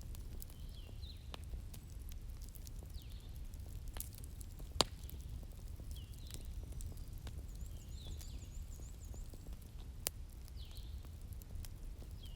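Wood fire crackling, with scattered sharp pops, the loudest about five seconds in and again about ten seconds in, over a low steady rumble.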